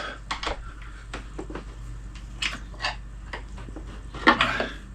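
Scattered clicks, knocks and light rattles of hands handling motorcycle parts and tools, with a louder scraping rustle about four seconds in; the engine is not running.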